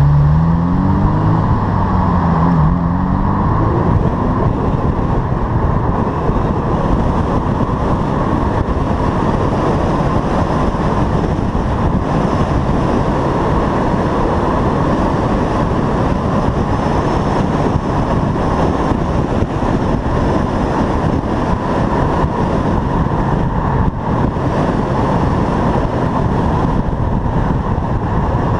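1988 Ferrari Mondial 3.2's V8 engine revving up through the gears in the first few seconds, its pitch climbing, dropping at a shift and climbing again. It then runs steadily under a dense, even road noise.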